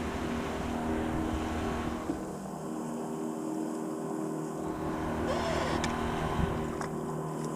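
Boat outboard motor running steadily at a low, even speed, with water and wind noise around it.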